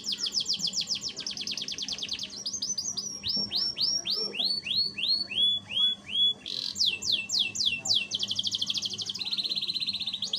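Canary singing a long, continuous song: very fast high trills of repeated notes, then a slower run of sweeping notes in the middle, then fast trills again.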